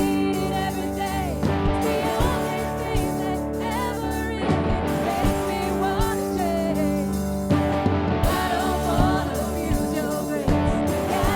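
Live worship band playing a song, with a sung melody over held chords and a steady beat.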